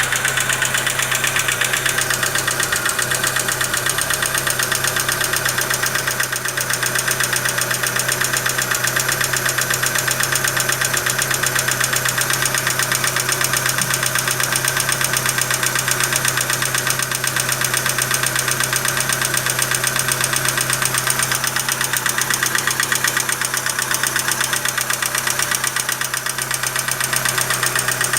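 Chevrolet Meriva engine idling steadily with a fast, even ticking running through it: the strange engine noise the owner is concerned about.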